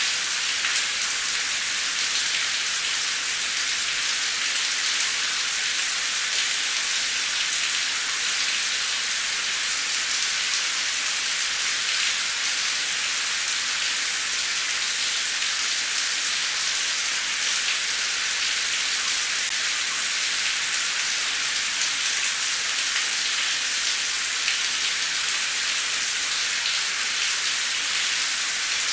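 Heavy rain falling steadily: an even, high hiss with a fine patter of drops and little low rumble.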